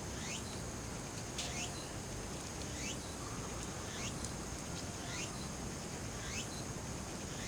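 A bird repeating a short upward-sweeping call about once every second and a half, over a steady high-pitched insect drone.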